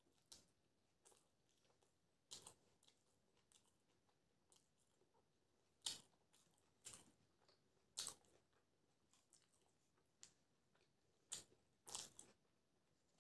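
Close-up chewing of raw green chillies and fresh coriander, with about seven sharp, crisp crunches spread through and softer chewing between them; the loudest crunches come about halfway through and near the end.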